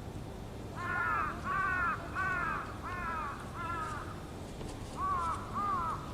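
A crow cawing: five caws in an even series, a short pause, then three more.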